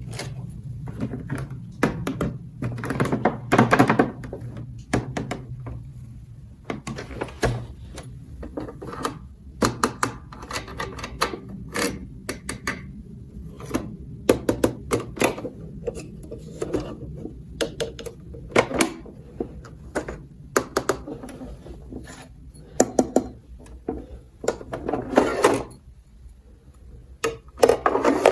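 Small plastic toy pieces clicking and knocking as they are handled and set down, in an irregular series of sharp taps, with busier clusters near the start and near the end.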